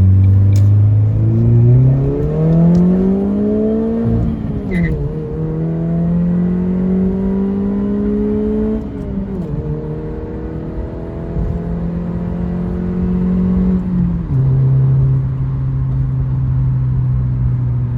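Ford Focus ZX3's 2.0-litre four-cylinder engine pulling hard under acceleration, heard from inside the cabin. The revs climb and drop sharply at two upshifts, about 4 and 9 seconds in. After a last drop at about 14 seconds the engine settles to a steady lower drone.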